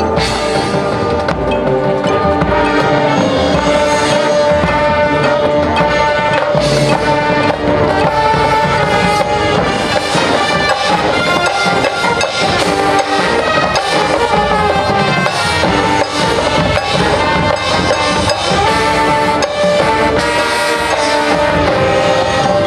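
High school marching band playing, with brass holding chords over drums and percussion.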